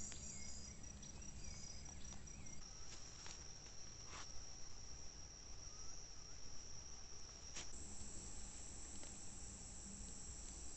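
Crickets and other insects trilling steadily at a high pitch, the chorus shifting in tone twice, with a few sharp clicks in between.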